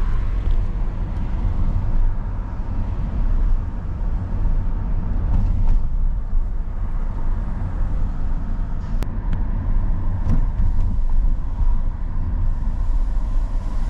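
Car driving, heard from inside the cabin: a steady low rumble of road and engine noise, with two brief sharp clicks about two-thirds of the way in.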